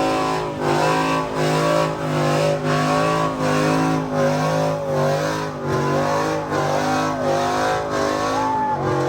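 A truck held at high revs with its engine note wavering up and down and tyres squealing: a burnout.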